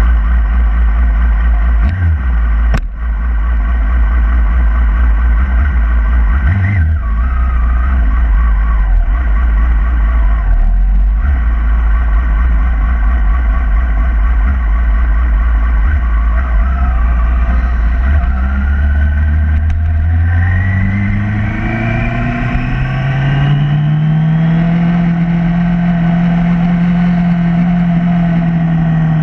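A 2011 Yamaha R6's 600 cc inline-four engine idling with a steady low note, with a few sharp clicks in the first seconds. About two-thirds of the way through, the engine note rises in pitch as the bike pulls away and accelerates, then holds a steady higher note.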